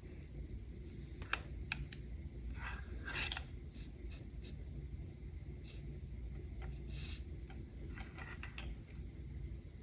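Scattered light clicks and short scrapes of a soldering iron and small parts being handled on a garage door remote's circuit board, over a low steady hum.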